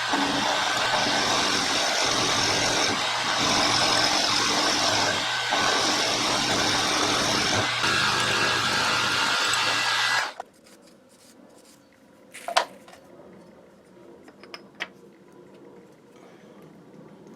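Milling machine running a 3/8-inch end mill cutting a slot, a loud steady machining noise over a low motor hum. It shuts off suddenly about ten seconds in, followed by a couple of light clicks.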